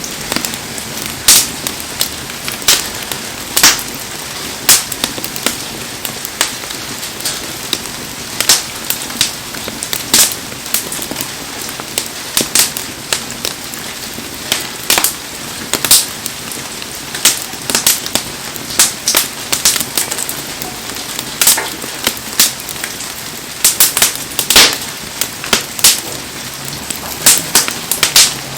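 Wood bonfire crackling with frequent sharp, irregular pops over a steady hiss of heavy rain.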